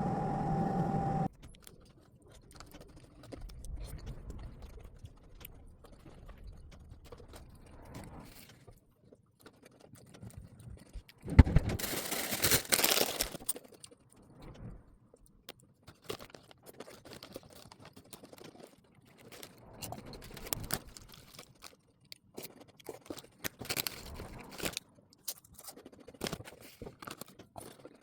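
A steady appliance hum with a tone cuts off about a second in. Then come scattered clicks, clinks and scrapes of things being handled, with a sharp knock about halfway through followed by two seconds of loud rushing noise.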